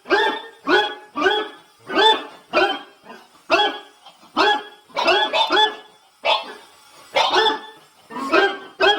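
A dog barking over and over in short, pitched barks, about two a second.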